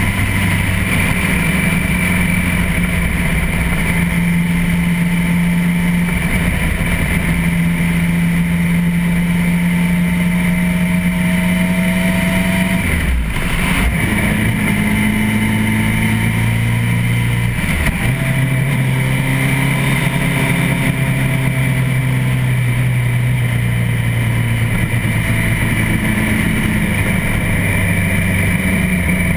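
Suzuki Hayabusa GSX1300R's inline-four engine running at steady riding revs under a constant rush of road and wind noise. The engine note shifts about 13 seconds in, with a brief break in the sound, and shifts again lower about 18 seconds in.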